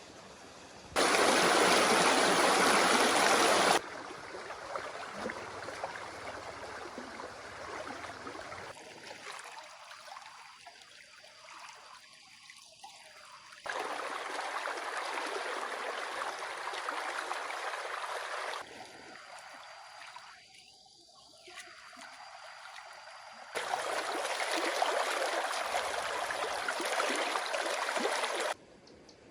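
Running water, an even rushing noise heard in several stretches that start and stop abruptly, loudest in the first few seconds.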